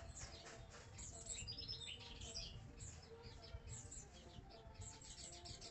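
Small songbirds chirping in rapid, high-pitched twitters, with a busier flurry of calls about one and a half to two and a half seconds in.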